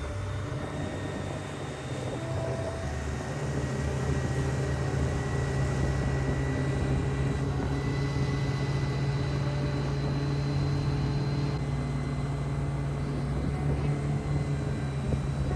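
Motorboat engine running steadily with a low drone, growing louder about two to four seconds in.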